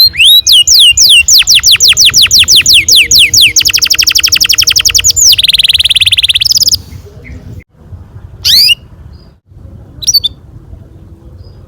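Domestic canary singing a long rolled trill of fast repeated falling notes that speeds up, then breaks into a buzzy rattle and stops about seven seconds in. After that come two short single chirps.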